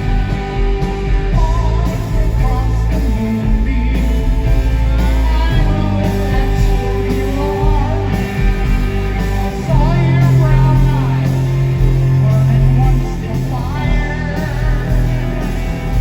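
Live rock band playing, with electric guitar and singing, a melody line bending and wavering over a heavy steady bass.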